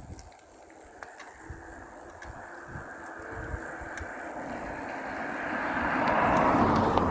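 A car approaching and passing the cyclists: tyre and engine noise growing steadily louder, loudest about six and a half seconds in, then starting to fade.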